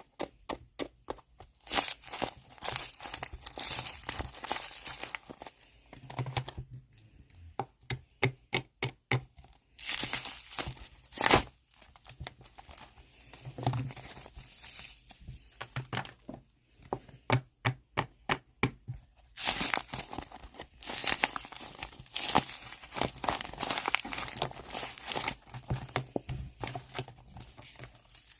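Tissue being crinkled and torn in irregular runs of quick crackles, with short pauses between runs.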